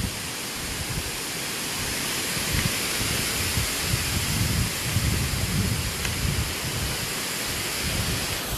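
Wind gusting across the microphone in uneven low rumbles over a steady rushing hiss, the hiss growing a little louder after the first couple of seconds.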